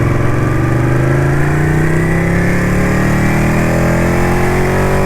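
Ducati motorcycle engine pulling under acceleration, its pitch rising smoothly and steadily.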